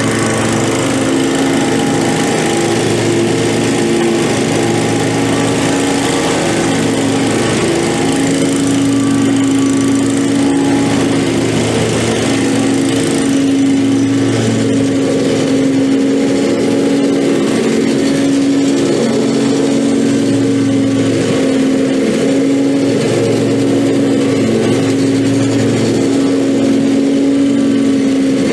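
Commercial lawn mower engine running steadily at mowing speed, with a constant engine hum and slight shifts in pitch.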